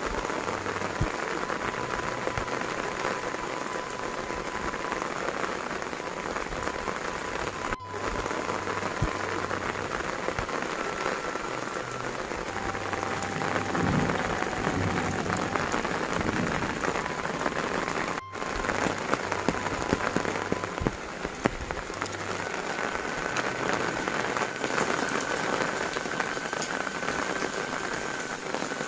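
Heavy rain falling steadily, pattering on tile roofs and wet ground, with water dripping off the eaves.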